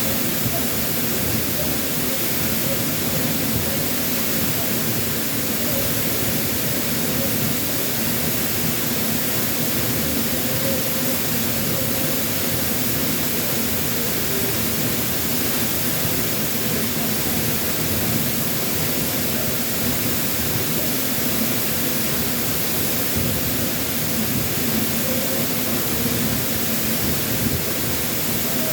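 Waterfall pouring steadily, a dense unbroken rush of water with its flow swollen after a typhoon.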